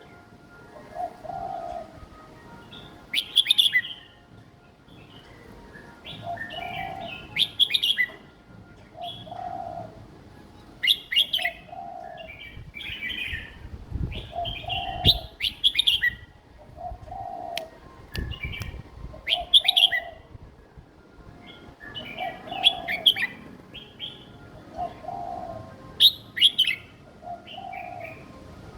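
Young red-whiskered bulbul singing a short, simple song phrase over and over, about once every four seconds, with softer lower notes between the phrases.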